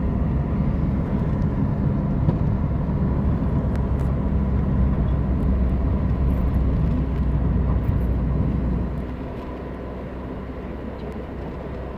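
Steady low rumble of a car travelling in strong wind, with wind and road noise. It quietens about nine seconds in.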